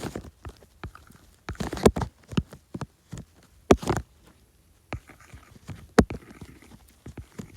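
iPad stylus tapping and clicking on an iPad's glass screen while drawing, in irregular clusters of quick taps with short pauses.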